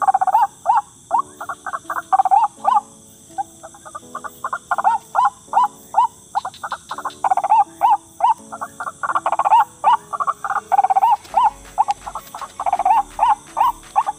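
White-breasted waterhen (ruak-ruak) calling: a fast, loud run of repeated croaking notes.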